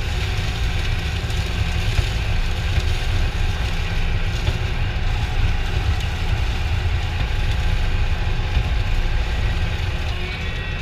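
A vehicle engine running steadily, a loud low rumble with a broad even noise over it.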